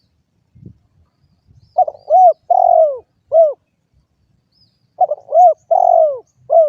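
Spotted dove (derkuku) cooing close and loud: two phrases of about four coos each, the first about two seconds in and the second about five seconds in.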